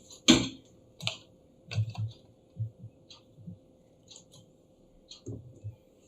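Irregular clicks and taps of hands on an ASUS ROG GX501VS laptop's keys and plastic case, the loudest two in the first half second, while it is being started up.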